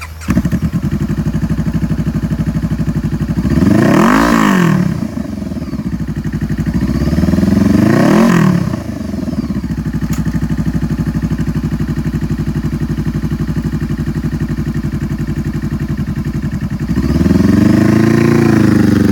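2014 Honda CBR500R's liquid-cooled parallel-twin engine idling through an aftermarket exhaust, blipped twice, a few seconds apart, with a longer rev near the end.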